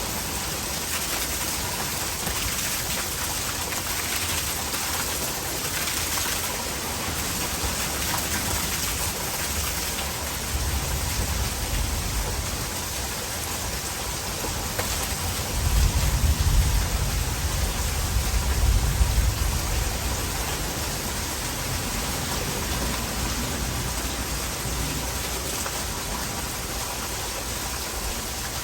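Heavy rain pouring steadily, with rainwater running into a gutter. A deep rumble swells for about four seconds around the middle and is the loudest part.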